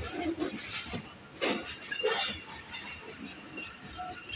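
Moving passenger train heard from its open door: the coach rattles and clinks as the wheels run over the rails, with louder metallic clanks about a second and a half and two seconds in.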